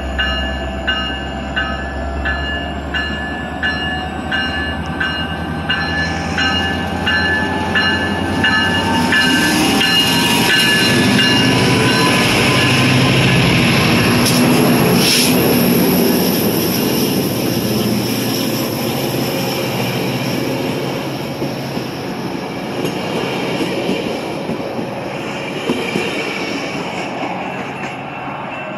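A train passing close by: rumble and rail noise build to their loudest about ten to sixteen seconds in, then ease off, over a whine that rises in pitch through the first dozen seconds. A warning bell dings about twice a second over the first several seconds.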